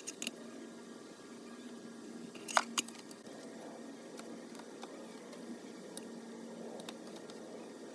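Faint room tone with a steady low hum and a few light clicks, the loudest a pair about two and a half seconds in.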